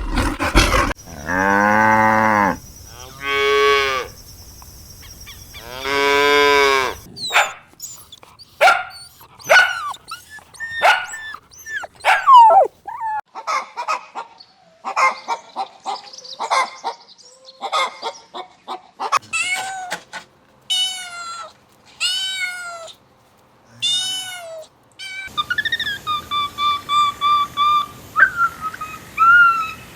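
Cattle mooing: three long calls that rise and fall, about a second and a half each. After them comes a run of short quick chirping calls, then a series of high arching cries about once a second, and near the end a pulsed high-pitched peeping from other animals.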